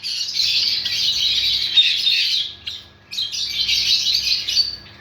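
Java sparrows chirping in two busy stretches of rapid high notes, with a short break a little before halfway.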